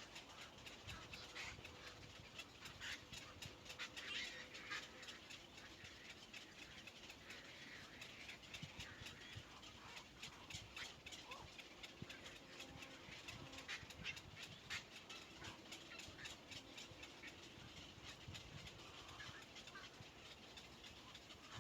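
Faint, scattered bird chirps and cheeps over a low background hiss.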